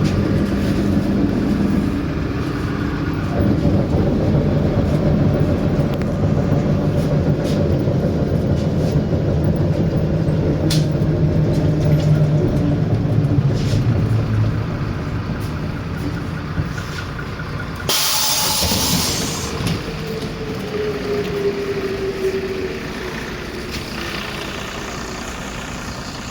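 MAZ 107 city bus from inside: the diesel engine runs steadily under way, then eases off as the bus slows. About eighteen seconds in comes a loud hiss of compressed air lasting over a second, followed by a short falling tone.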